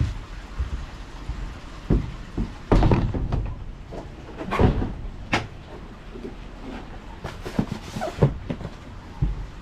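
Irregular knocks, thumps and clatter, several strokes, the loudest about three seconds and four and a half seconds in, like things being handled and set down or a door being worked.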